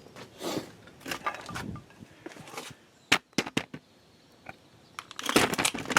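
Hand tools being handled while a torque wrench is set and fitted: rustling and scraping, a few sharp clicks about halfway through, then a louder metallic clatter near the end.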